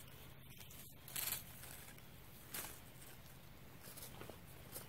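Quiet room tone with a low hum, broken by a brief soft rustle of handling about a second in and a faint tick around two and a half seconds in.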